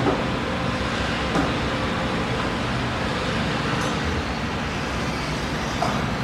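Steady road traffic noise, a continuous wash of passing vehicles with a few faint clicks.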